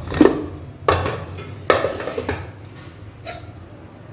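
Metal ladle knocking and scraping against a steel pressure-cooker pot as the cooked chicken curry is stirred: about five sharp clinks, each ringing briefly.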